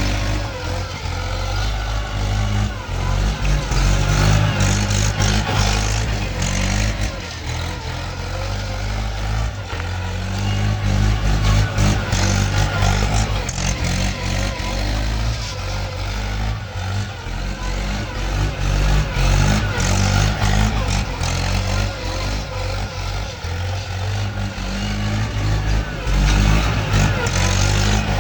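Mahindra tractor's diesel engine running steadily, with a strong low drone.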